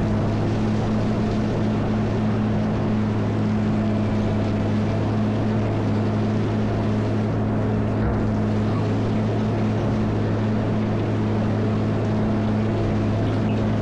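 CAT 140M motor grader's diesel engine running at a steady speed with a constant low drone.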